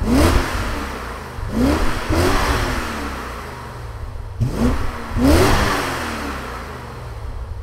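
A car engine revved sharply several times, in pairs of blips, each one climbing quickly in pitch and then dying away.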